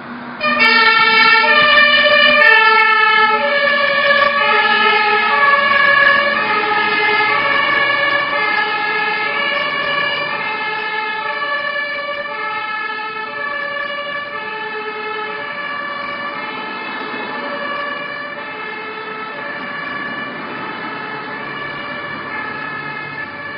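Two-tone siren (Martinshorn) of a fire brigade turntable ladder truck, switched on about half a second in and alternating steadily between a high and a low tone. Loud at first, then slowly growing fainter.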